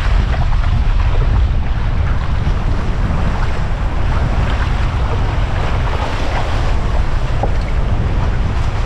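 Strong wind buffeting the microphone with a steady low rumble, over the wash and splash of choppy lake waves.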